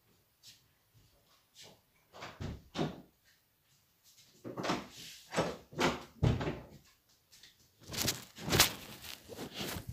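Pages of a large hardback picture encyclopedia being turned and handled: a run of irregular paper rustles and soft knocks, with a dull thump about six seconds in and the loudest rustling near the end.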